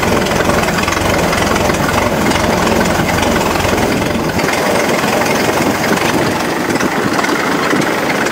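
Model T speedster's four-cylinder engine running through open exhaust headers with no muffler as the car rolls slowly. The low rumble eases about four seconds in.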